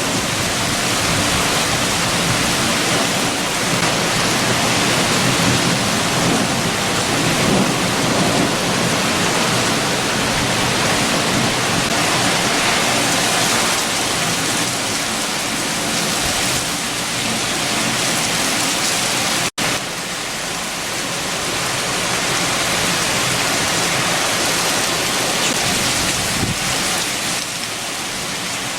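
Heavy rain with strong wind, a steady dense hiss. The sound drops out for an instant about two-thirds of the way through.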